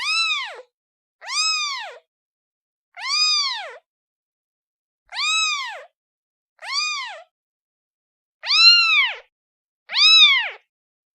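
A kitten meowing repeatedly, calling for its mother: seven short meows, each rising then falling in pitch, spaced one to two seconds apart.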